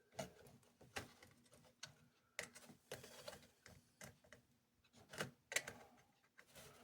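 Faint, irregular clicks and taps of small plastic toy parts being handled and pressed into place, a few strokes a second apart at most.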